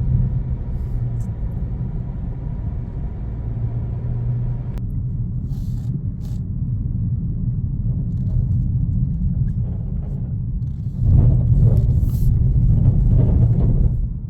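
A car driving along a road: a steady low rumble that gets louder about 11 seconds in.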